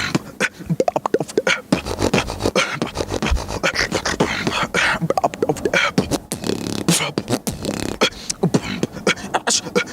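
A beatboxer's mouth-made groove: fast clicks, snare-like hisses and short pitched vocal bass notes, kept in a steady rhythm.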